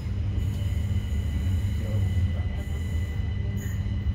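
Passenger train running into a station, heard from inside the carriage: a steady low rumble with thin, steady high whines over it.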